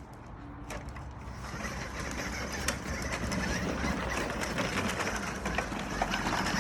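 Toy Dodge Ram monster truck's small electric motor whirring as it drives, with rattling clicks. The sound builds over the first couple of seconds, then runs steadily.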